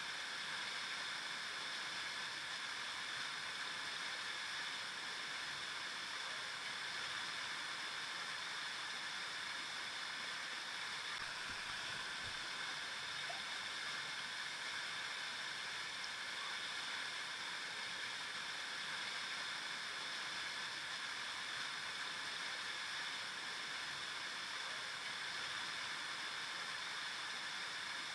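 Flowing river water: a steady, even rush of a stream running over rocks.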